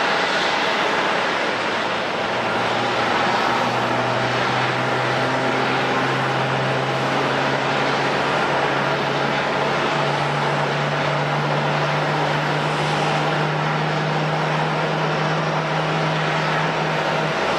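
Jet airliner engine noise at an airport: a steady rush with a constant whine. Over it, a low hum begins a couple of seconds in, steps up in pitch about ten seconds in and stops just before the end.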